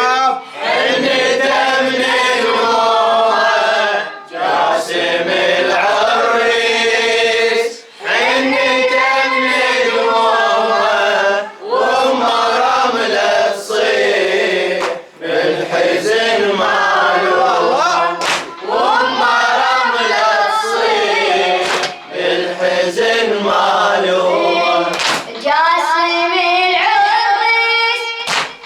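A group of voices singing the refrain of a Shia Muharram latmiya (mourning elegy) in unison, in phrases of a few seconds separated by short breaths. Near the end a single young reciter's voice takes up the line.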